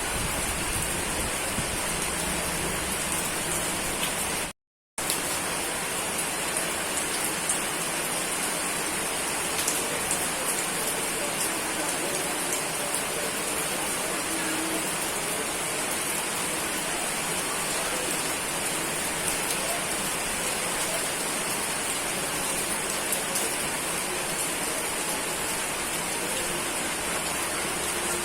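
Steady rain falling, a dense even hiss with faint scattered drop ticks. The sound cuts out completely for about half a second roughly four and a half seconds in, then resumes as before.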